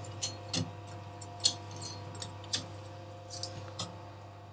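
Scattered light clicks and clinks of small metal pieces and tools being handled, over a steady electrical hum from workshop equipment.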